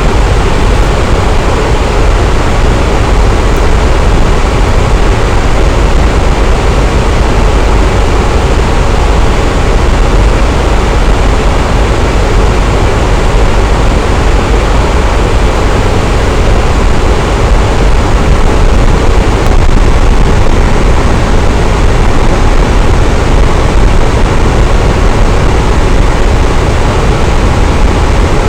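Electric fan running steadily: a constant deep whooshing rush of moving air with no changes.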